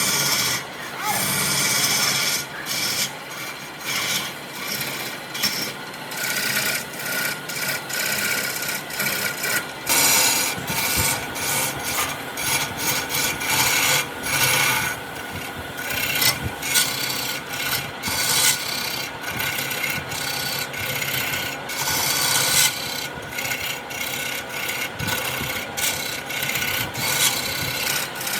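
Wood being worked with an abrasive: irregular, stop-start scraping and rubbing strokes, like filing or sanding wood, over a faint steady hum.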